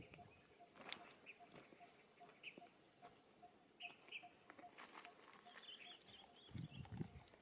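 Near silence with faint, short, high chirps scattered through, a couple of sharp clicks, and soft low rustling near the end.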